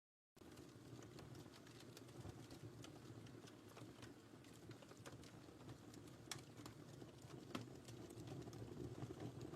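Wood fire burning in a fireplace: a faint low rumble of flames with scattered crackles and pops from the burning wood, after a brief moment of dead silence at the start.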